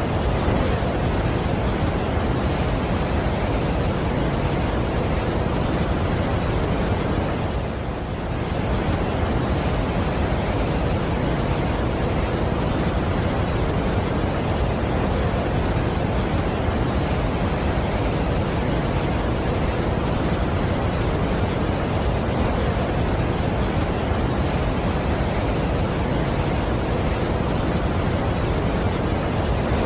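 Steady rushing of a large waterfall, a dense even wash of falling water with no breaks. It softens briefly about eight seconds in.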